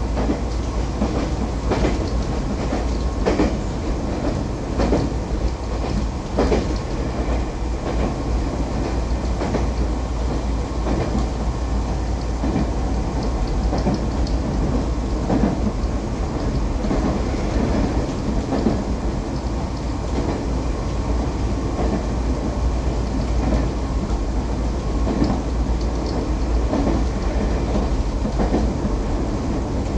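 Electric commuter train running, heard from inside the passenger car: a steady rumble of wheels on the rails with occasional sharp clacks from rail joints.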